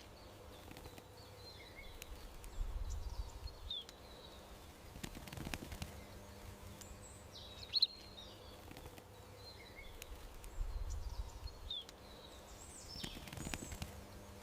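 Small birds chirping in short, high calls over a faint steady hum, with a low rumble twice. The same few seconds of sound repeat about every eight seconds, as in a looped ambience track.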